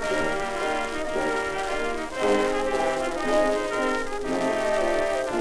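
A 1920s dance orchestra playing an instrumental passage led by brass, played back from a c1923 Bell 78 rpm record. It has the narrow, boxy range of an early record, with surface hiss over the top.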